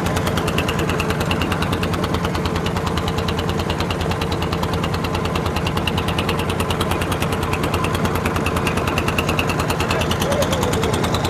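Boat engine running steadily with a rapid, even beat of strokes.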